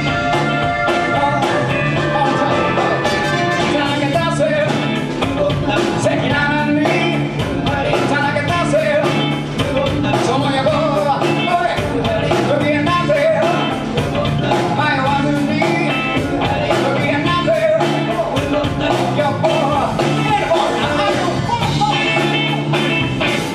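Live band playing rock and roll without a break, with a steady bass line under melody in the mid range.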